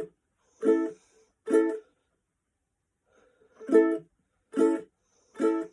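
Ukulele chords strummed one at a time, each stopped by the hand right after the strum so it cuts off short. Six short strums, about one a second, with a pause of about two seconds midway.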